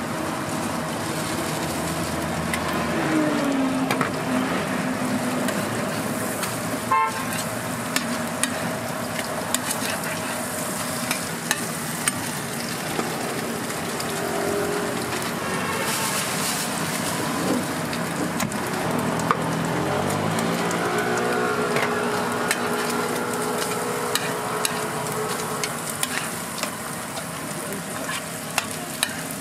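Egg-and-cabbage patties and melting butter sizzling on a hot flat-top griddle, with a block of butter rubbed across the hot surface. Occasional short clicks of a metal turner on the griddle.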